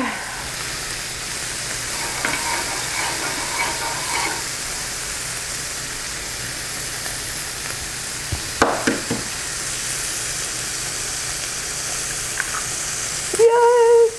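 Steady sizzling of marinated pork riblets and egg frying on a hot electric indoor grill. A few sharp taps come about two-thirds of the way through, and a brief voice near the end.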